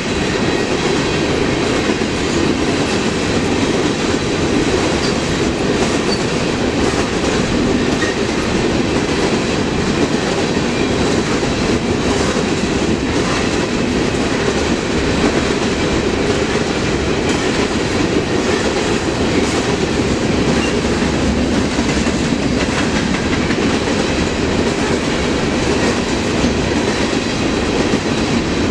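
Railroad cars of a passing train rolling along the track: a loud, steady rumble of wheels on rail that does not let up.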